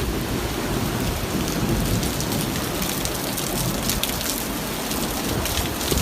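Heavy rain falling in a thunderstorm: a steady hiss of rain, with uneven low rumbling underneath.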